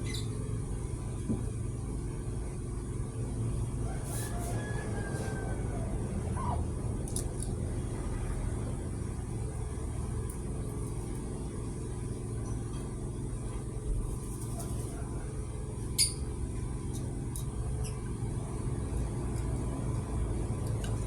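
Steady low mechanical rumble from a running machine, with a few light metallic clicks. The sharpest click comes about sixteen seconds in.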